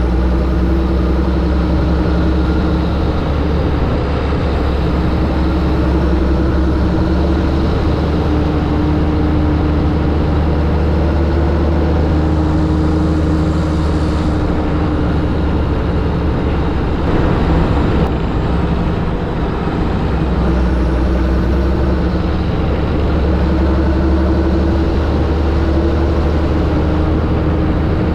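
John Deere 7730 tractor's diesel engine running steadily with a low drone, wavering briefly a little past the middle.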